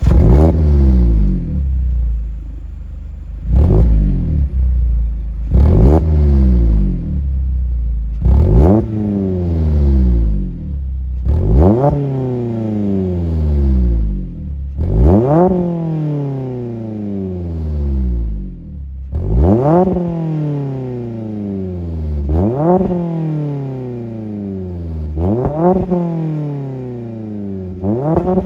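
Mazda MX-5 Miata (ND) four-cylinder engine free-revving through a Good-Win Racing RoadsterSport race axle-back muffler. There are about ten quick blips, each rising sharply and falling back slowly to idle.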